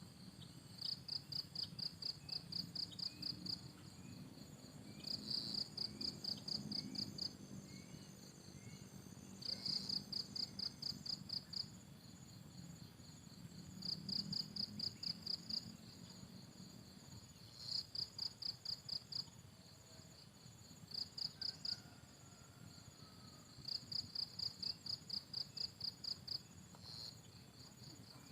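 Insect chirping in repeated high, rapidly pulsed trains, each lasting one to three seconds with short gaps between them, with faint short bird chirps in the background.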